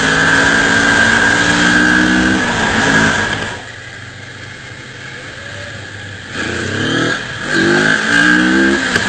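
650 cc motorcycle engine under way, with wind rushing past: it holds steady revs, drops away to a quiet stretch for about three seconds, then climbs in pitch several times as it accelerates again.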